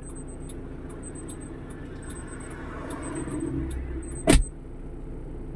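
Steady vehicle and road-traffic rumble that swells for a second or two in the middle, with one sharp knock a little past four seconds in.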